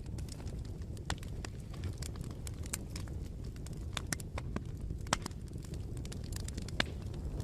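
Wood bonfire crackling: irregular sharp pops and snaps over a steady low rumble of the burning fire, with a louder pop about five seconds in.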